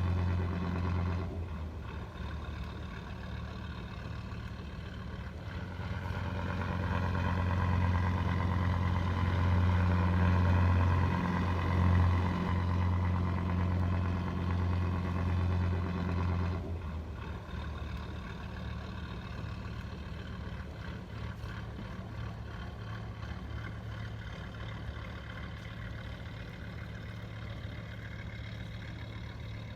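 Steady low engine-like hum from remote-control toy vehicles. It grows louder in the middle, and its deep tone cuts off abruptly about seventeen seconds in, leaving a lighter hum.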